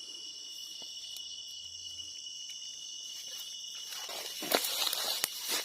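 Steady high-pitched chirring of night insects such as crickets. From about two-thirds of the way in, loud rustling and crackling clicks join it.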